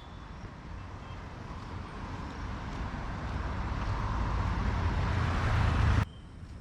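Road traffic noise: a vehicle drawing close and growing steadily louder, then cut off suddenly about six seconds in.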